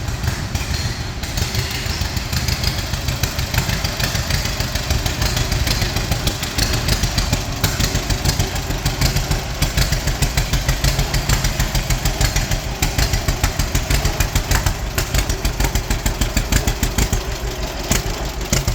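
Engine of a 1937 Model B running steadily with an even, pulsing beat.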